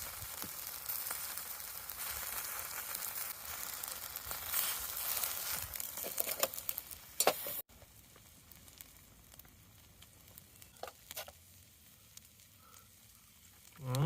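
Chicken sizzling as it cooks, a steady frying hiss with crackles and a couple of sharp pops about seven seconds in. About halfway through, the sizzle cuts off abruptly, leaving a quiet stretch with a few small clicks.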